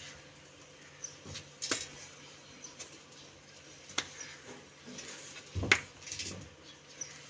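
A few scattered sharp clicks and knocks, the loudest about two-thirds of the way through, over a faint steady hum.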